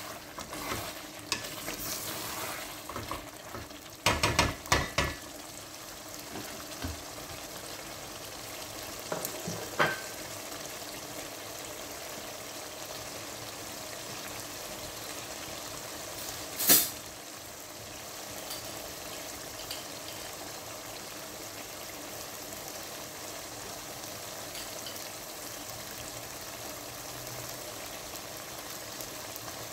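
Chicken pieces in masala sizzling and bubbling in a pot, being fried down on low heat. A spatula stirs and knocks against the pot in the first few seconds, with a quick cluster of knocks about four seconds in. A single sharp click comes about halfway through.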